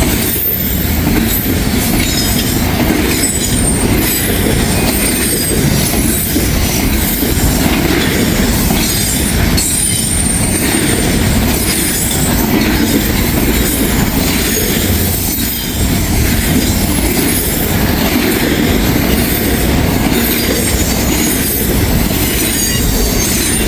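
Long freight train's cars rolling past at close range: a steady, loud rumble of wheels on rail with short high wheel squeals now and then.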